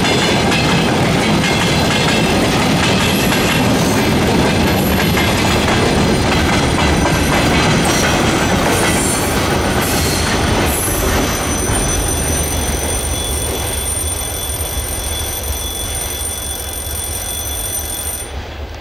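Freight train's wagons rolling past on the rails, wheels clattering with a few brief high squeals, then fading as the train moves away from about ten seconds in. A steady high-pitched tone carries on under the fading train and cuts off suddenly near the end.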